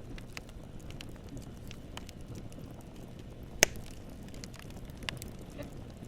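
Wood campfire burning, a steady low rush of flames with frequent small crackles and pops, one loud sharp pop about halfway through and a smaller one a little after.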